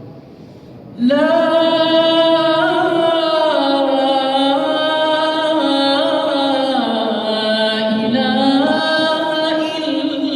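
A solo man's voice chanting in Arabic recitation style, coming in about a second in and drawing out long held notes with the pitch sliding between them.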